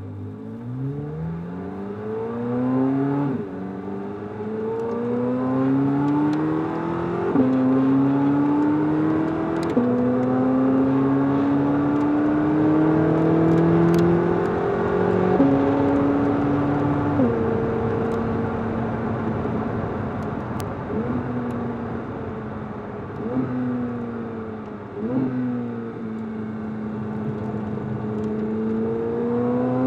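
C8 Corvette Z06's flat-plane-crank 5.5-litre V8 at full throttle pulling up through the gears from a standstill, its note climbing and dropping sharply at three upshifts in the first ten seconds. Partway through it comes off the throttle and is heard jumping up in pitch with several downshifts while slowing, then climbs again under power near the end.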